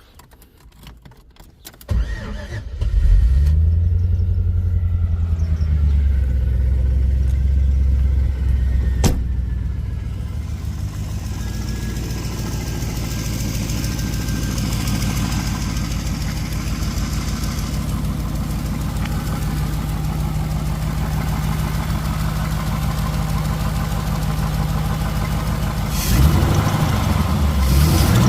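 LS V8 engine in a twin-turbo BMW E36 cranking and starting about two seconds in, running at a fast idle for several seconds after it catches, then settling to a steady, lower idle. A short rise in engine speed near the end.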